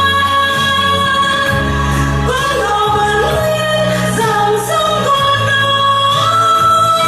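Music with singing: a long-held melody that slides between notes over a steady accompaniment.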